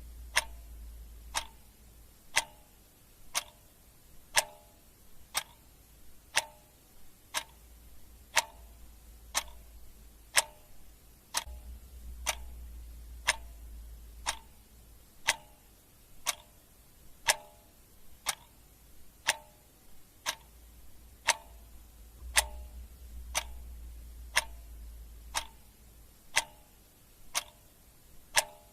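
Clock ticking steadily, about one sharp tick a second, over a faint low rumble that swells and fades a few times.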